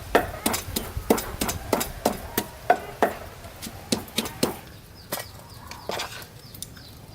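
Knife chopping on a cutting board in quick, repeated strokes, about two to three a second, thinning out to a few lighter strikes after about five seconds.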